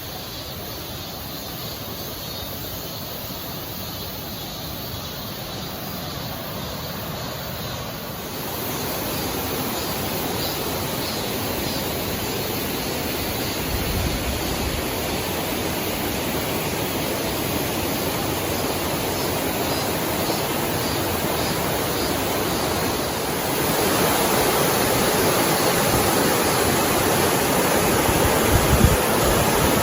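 Mountain stream rushing over rocks, a steady wash of water that grows louder in two steps, about eight seconds in and again near the end.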